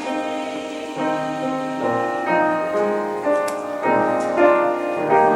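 Piano music: a slow instrumental interlude of held chords, changing about once a second.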